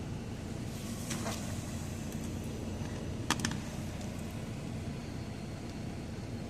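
Steady low hum of an idling truck, with two brief clusters of light clicks about one and three seconds in.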